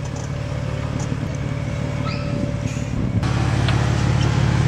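A car engine running with a steady low pulse, getting louder about three seconds in.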